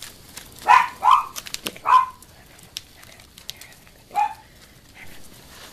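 Jack Russell terrier barking: four short, sharp barks, three close together in the first two seconds and one more about four seconds in.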